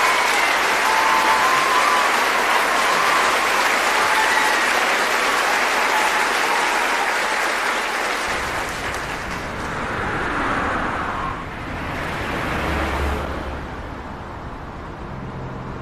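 Audience applauding in a hall, dense at first and thinning out over the second half, as a low rumble comes in about halfway through.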